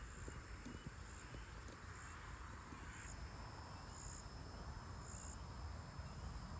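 Faint, steady high-pitched insect chorus, with a few short, brighter buzzing notes every second or so.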